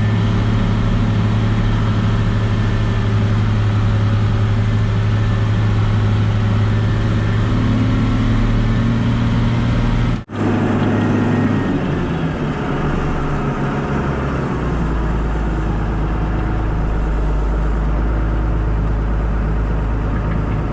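A vehicle engine running steadily while under way, heard from the driver's seat. About ten seconds in the sound cuts out for a moment, and afterwards the engine drone carries on with a deeper note.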